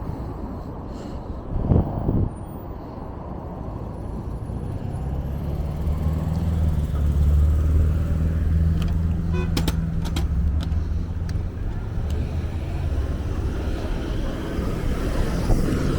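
A motor vehicle running: a low drone that builds after about four seconds and eases off after about twelve, with a few sharp clicks near the middle.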